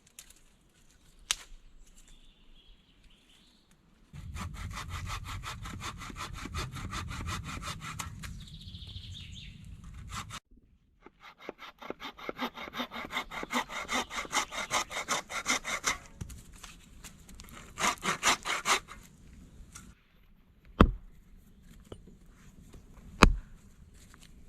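Hand saw cutting wood in two long runs of rapid, even back-and-forth strokes, with a short pause between them. Near the end come two sharp knocks about two seconds apart.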